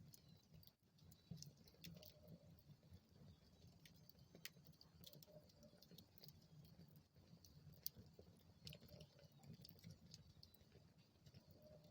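Faint crackling of a wood fire in a fireplace: scattered small pops and snaps over a soft low rumble of the flames.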